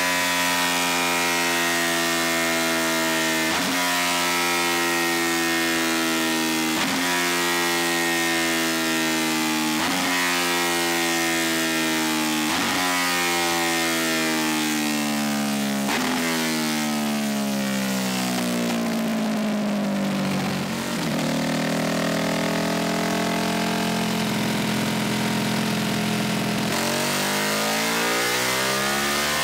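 Ducati 1299 Superleggera's Superquadro V-twin engine running hard on a chassis dyno during a break-in run, its pitch sweeping up and down in repeated pulls with sharp breaks every few seconds. A little past the middle the revs fall away in one long sweep to a steady hold, then climb again near the end.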